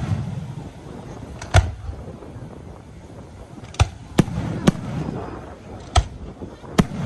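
Fireworks going off: six sharp bangs at uneven intervals, two of them close together about four seconds in, over a continuous low rumble.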